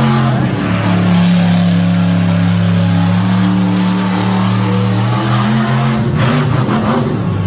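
Monster truck engine running loud at high revs, its pitch held steady for several seconds, then breaking up about six seconds in.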